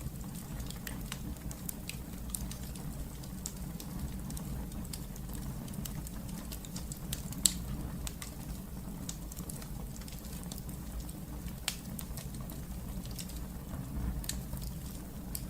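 Wood fire burning in a fireplace, crackling with irregular small pops over a steady low rush of the flames. One sharper, louder pop comes about halfway through.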